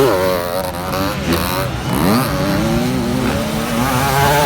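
Several dirt bike engines revving, their pitch repeatedly rising and falling as they accelerate and shift, with overlapping bikes heard at once.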